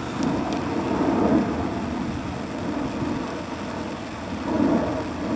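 Heavy, steady sleet and graupel falling and pattering, with low rumbling swells about a second in and again near the end.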